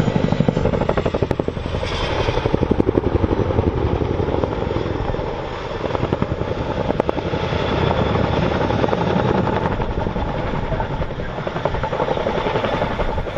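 Boeing Chinook tandem-rotor helicopter flying a display close overhead: loud, rapid, steady beat of the rotor blades over the rumble of its turbine engines. The sound eases briefly about five seconds in.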